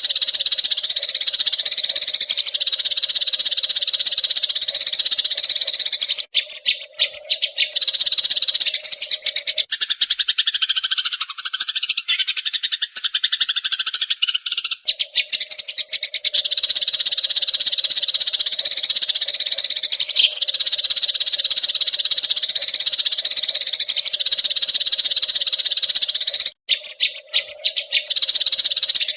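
Eurasian tree sparrows chattering: a dense, continuous run of overlapping high chirps. It drops out briefly about six seconds in and again near the end.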